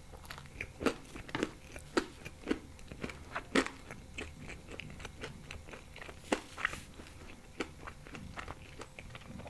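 Close-miked chewing of a mouthful of thin-crust bechamel pizza with ham, with many irregular crunches and mouth clicks.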